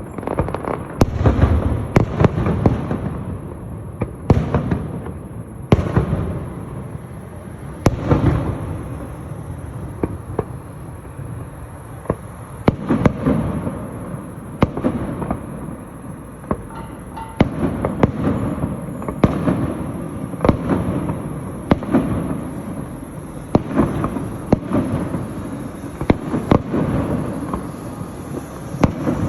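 Fireworks show: aerial shells bursting in a steady barrage of sharp bangs about every second or two, over a continuous booming rumble.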